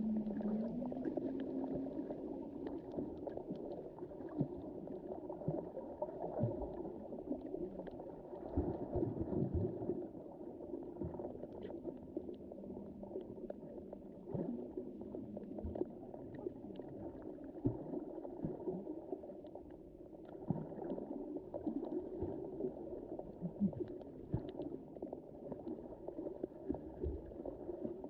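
Underwater ambience in the Mediterranean Sea: a muffled, steady swirl of moving water with scattered faint clicks and crackles. A low hum rises slightly in pitch and fades out within the first two seconds.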